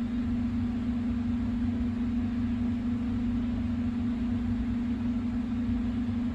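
A steady mechanical hum holding one low pitch, with a low rumble underneath.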